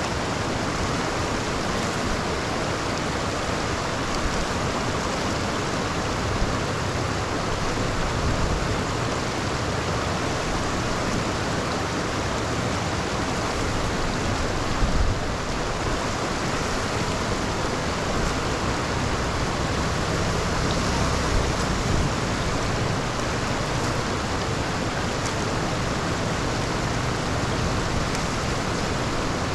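Heavy rain and rushing floodwater: a steady, even noise with a few brief knocks about halfway through.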